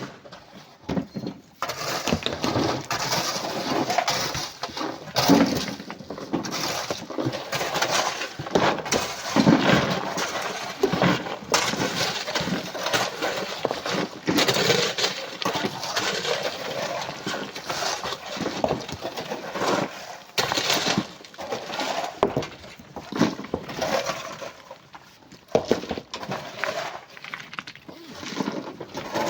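Sand and coral rock being loaded into a truck: a continuous clattering and crashing of stones and grit, dense with small impacts.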